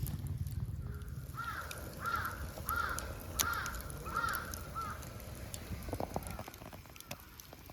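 A crow cawing six times in an even series, over a low steady rumble.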